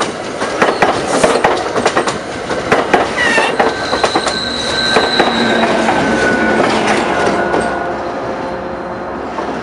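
Bombardier bi-level commuter coaches rolling past at close range, their wheels clacking over rail joints with brief wheel squeals, including a steady high squeal in the middle. The sound fades as the last car passes, near the end.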